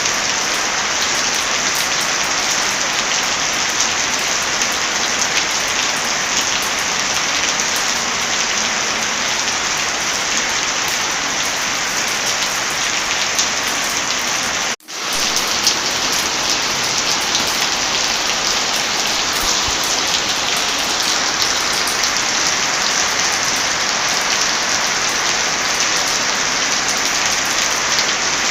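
Steady heavy rain mixed with the crackle of a wood fire, scattered small pops over a constant hiss. The sound drops out for an instant about halfway through and swells straight back in.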